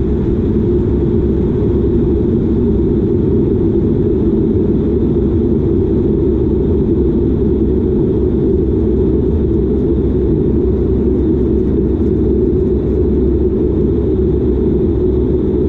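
Dash 8 Q400's Pratt & Whitney PW150A turboprop engines and propellers running, heard inside the cabin as a loud, steady drone with an even low hum.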